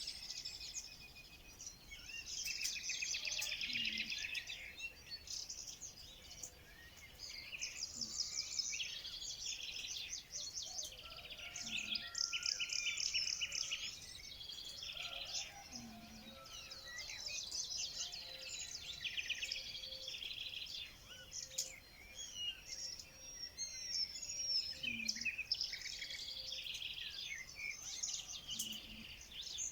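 A chorus of many songbirds singing and chirping at once, with dense overlapping rapid trills and twitters that never stop.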